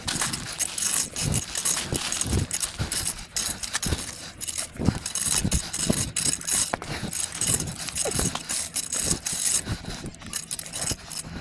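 Gravel and sand crunching and scraping as the base is worked and levelled, in irregular strokes a fraction of a second apart.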